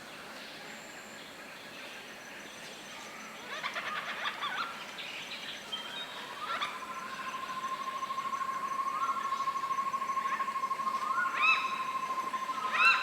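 Wild birds calling in tropical forest. A flurry of chirps comes about four seconds in. From about six seconds one long, even, steady-pitched trill is held for several seconds. Loud, short upward calls near the end are the loudest sounds.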